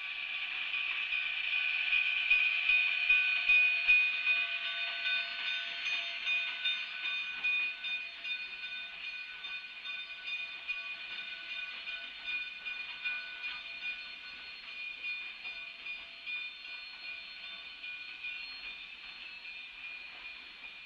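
Narrow-gauge steam train rolling slowly past: a steady high-pitched ringing squeal from the wheels on the rails over a hiss, with repeated clicks. It is loudest a few seconds in as the locomotive passes and fades gradually as the coaches follow.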